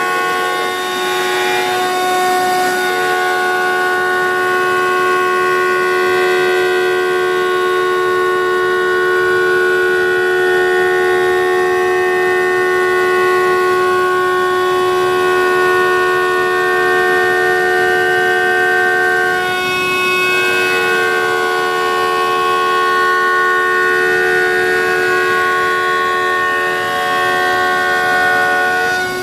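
CNC router spindle running at high speed while milling a wooden guitar neck: a loud, steady high whine made of several held tones. One of its tones drops out briefly twice.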